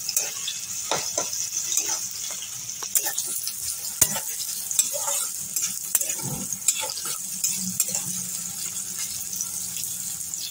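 Sliced onion and tomato pieces sizzling steadily in hot oil in a kadai, while a spatula stirs them, knocking and scraping against the pan again and again.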